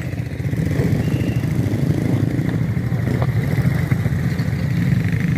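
ATV engine running at low throttle, a steady low rumble that picks up slightly about half a second in.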